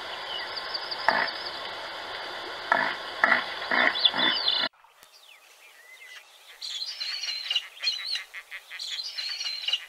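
Outdoor nature ambience: a steady hiss with a few short knocks and faint bird chirps. About halfway through it cuts abruptly to quieter surroundings, where high, rapid bird chirps come in clusters.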